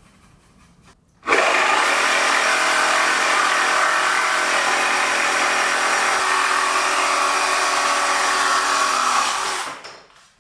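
Power tool cutting wood: it starts abruptly about a second in, runs at a steady pitch for about eight seconds, and stops near the end.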